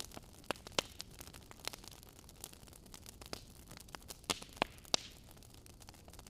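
Wood fire crackling: irregular sharp pops and snaps over a soft hiss, with a few louder pops between about four and five seconds in.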